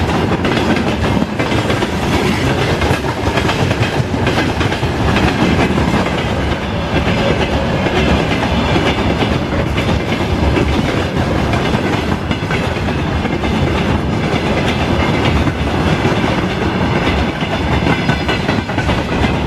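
Train cars rolling past behind a 2ES10 'Granit' electric locomotive, wheels clattering steadily over the rail joints.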